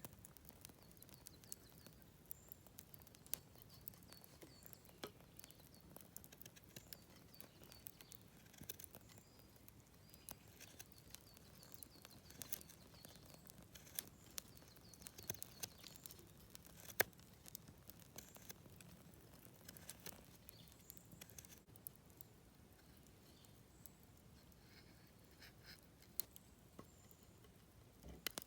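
Knife carving a notch around a fallen cherry-wood stick: faint, irregular clicks and scrapes as the blade cuts into the wood.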